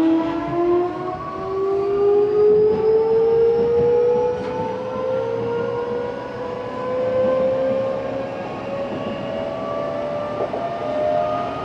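Odakyu 8000 series electric train with a Mitsubishi SiC-VVVF inverter, its traction motors whining as the train accelerates: several tones rising steadily in pitch over the running rumble.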